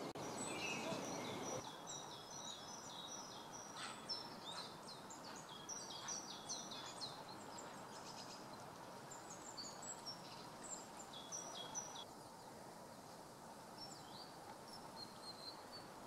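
Birds calling: many short, high chirps and whistles, thickest in the first half and thinning out toward the end, over steady background noise.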